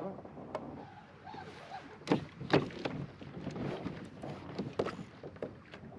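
Scattered knocks and clatter on a fishing kayak while a snapper is brought up alongside, the two loudest a little after two seconds in and about half a second apart.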